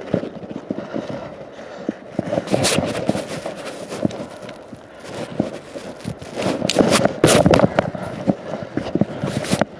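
Irregular knocks, clicks and scraping, louder in two rough stretches about two and a half and seven seconds in.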